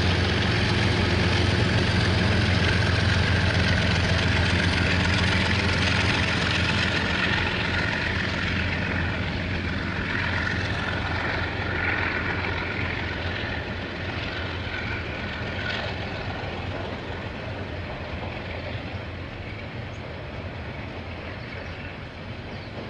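KiwiRail diesel locomotive passing: a steady low engine drone with the rumble of the train rolling on the rails, fading gradually as it goes by.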